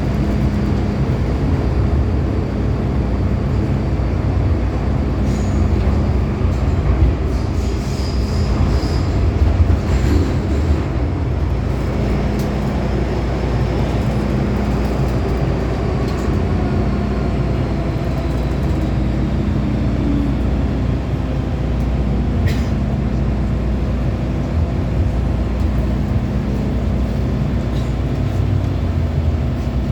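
MTR M-Train electric metro car running between stations: a steady low rumble of wheels on the track, with a few sharp clicks and a faint whine that slowly falls in pitch partway through.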